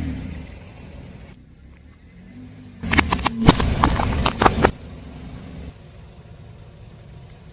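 A car tyre rolling over and crushing a crunchy object: a burst of cracking and snapping about three seconds in, lasting about two seconds, over the low running of the car's engine.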